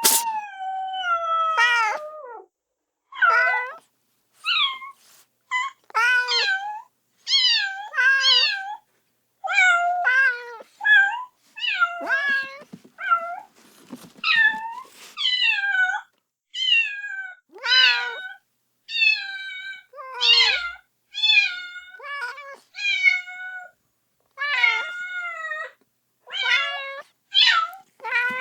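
Kitten meowing over and over, calling for its mother: short, high-pitched meows that fall in pitch, about one a second, with brief gaps between them.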